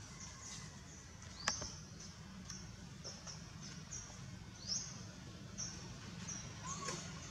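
Small birds chirping, short high calls repeated irregularly over a low steady outdoor hum, with a sharp click about a second and a half in and a brief rising squeak a little past halfway.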